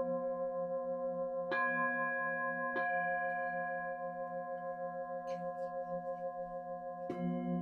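Singing bowls ringing together, several sustained tones wavering in a slow pulse as they beat against each other. Fresh mallet strikes add new tones at about a second and a half in, again about a second later, and once more near the end.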